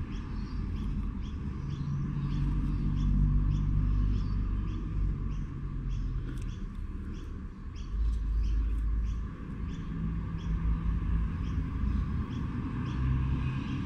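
A bird chirping over and over, about two short high chirps a second, under a low, uneven rumble.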